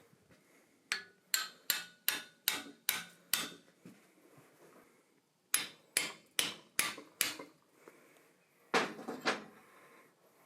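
Hammer blows ringing on steel stock during blacksmithing: a run of seven strikes at about three a second, then five more after a short pause, followed near the end by a duller clatter.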